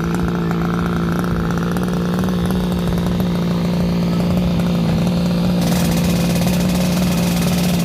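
Zenoah 26cc two-stroke engine of an RC V-hull boat running at a steady, unchanging pitch. About two-thirds of the way through, a hiss joins the engine note.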